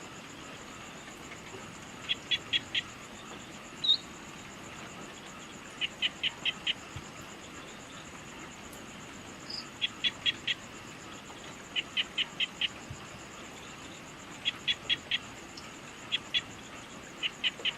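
Evening insect chorus: a steady, high, pulsing insect trill, over which an animal repeats a call of about four quick, short, sharp notes every two to four seconds. A single brief chirp comes about four seconds in.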